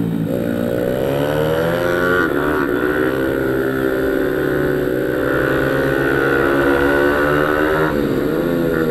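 Pit bike engine revving hard under acceleration. The pitch climbs, dips briefly about two seconds in as it shifts gear, holds high, then drops sharply near the end as the rider backs off, and climbs again.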